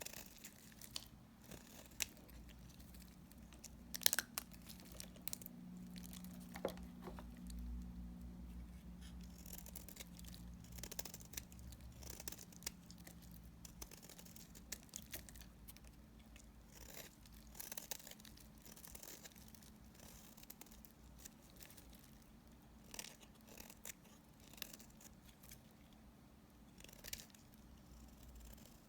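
Small leftover pieces of dry bar soap being cut, making irregular crisp crunches and crackles, with a sharper snap about four seconds in. A faint steady low hum sits underneath.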